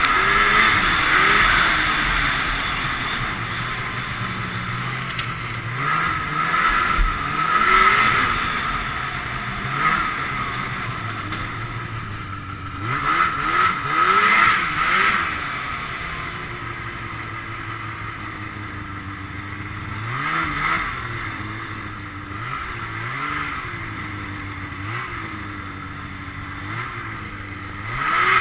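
Ski-Doo Blizzard 5500 snowmobile's fan-cooled Rotax two-stroke twin running under repeated throttle, its pitch rising and falling again and again, with a steadier stretch of even running in the middle.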